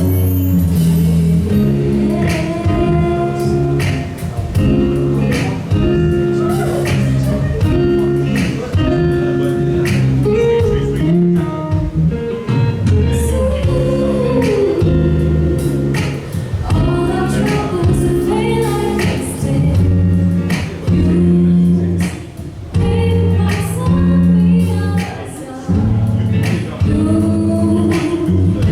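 Live song with a singer over guitar and a steady beat.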